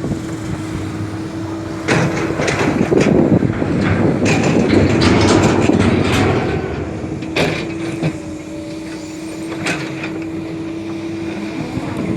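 Hydraulic excavator running with a steady whine. From about two seconds in there is a louder stretch of rough noise with sharp knocks as the bucket works the soil, before it settles back to the steady whine.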